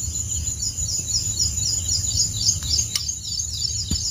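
A bird calling in quick repeated chirps, about four a second, over a low steady rumble. Two sharp clicks sound near the end.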